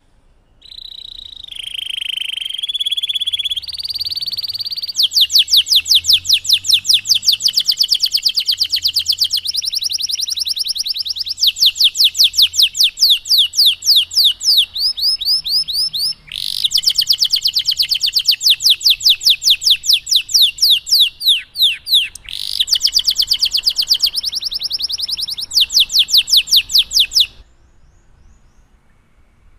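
Domestic canary singing a long, continuous song of fast trills and rolls, with runs of rapidly repeated notes that switch to new pitches every few seconds. The song stops shortly before the end.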